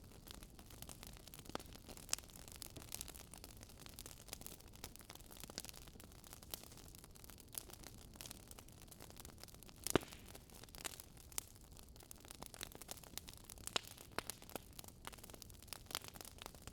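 Wood fire crackling: irregular sharp pops and snaps over a low hiss, with one louder pop about ten seconds in.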